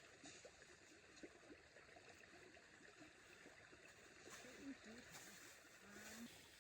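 Near silence: faint, irregular rustling and crackling, with a faint voice in the distance toward the end.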